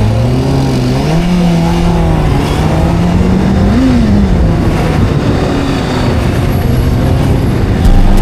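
Video-game sport-bike engine revving as the bike accelerates. Its pitch climbs at the start, peaks about four seconds in, then falls back and runs steady.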